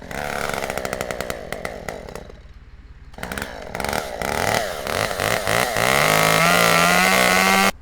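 Chainsaw engine revving up and down, easing off briefly, then held at high revs. It cuts off suddenly near the end.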